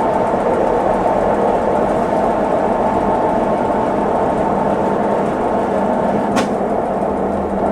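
Consul Facilite 11 kg top-loading washing machine running steadily, with a single sharp click about six seconds in.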